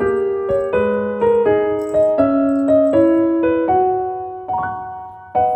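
Background piano music: a light melody of struck notes and chords at an even pace.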